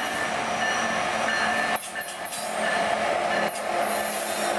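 Diesel-powered train passing close by: the locomotive engines drone steadily under wheels rolling on the rail. A few short, sharp high-pitched sounds come about two seconds in.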